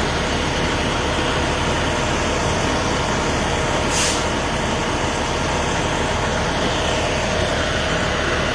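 Heavy truck engine idling steadily, with one short hiss of air about four seconds in.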